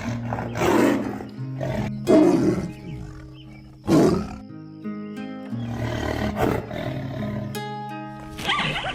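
Loud, short animal calls of a roaring kind over background music, the three strongest coming about a second and a half apart in the first half.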